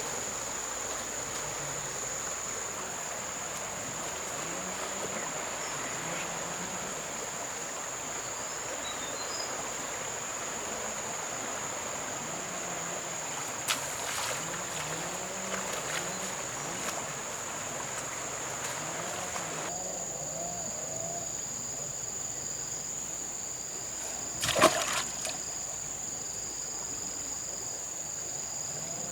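River ambience: a steady high insect drone over trickling water, with a couple of splashes, the louder one about two-thirds of the way through. A second, pulsing insect call joins partway through.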